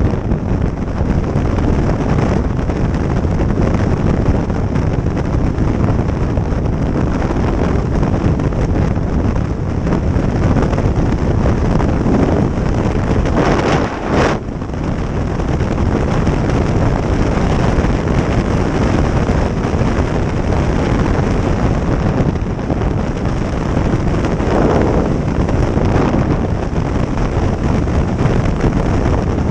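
Motorcycle riding at speed: steady rush of wind over the microphone, with engine and road noise underneath. A short swell and then a brief dip in loudness about halfway through.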